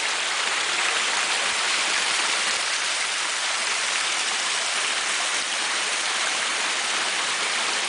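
Water rushing steadily down a small cascading waterfall.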